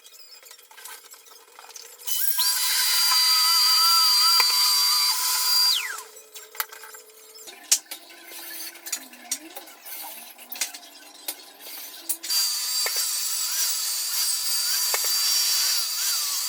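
A handheld power tool runs twice, each time for a few seconds, with a steady high whine. After the first run it winds down with a falling pitch. Scattered clicks and knocks come between the two runs.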